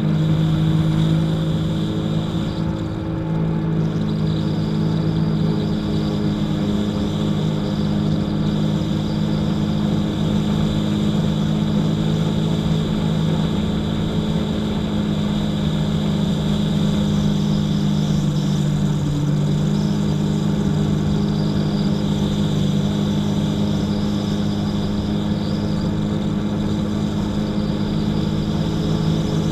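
Jet ski engine running steadily at a constant pitch.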